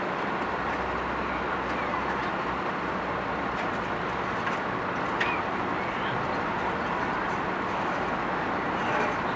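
Steady outdoor background noise of traffic, with a few faint short chirps.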